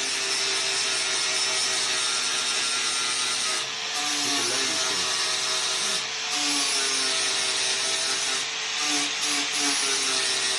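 Angle grinder running steadily against steel, cleaning up fresh welds on a motorcycle frame. Its whine dips and recovers a few times as it is pressed on the metal.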